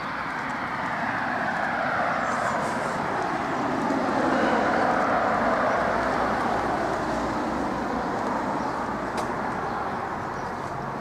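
A road vehicle passing, its noise swelling to a peak about four to five seconds in and then fading slowly.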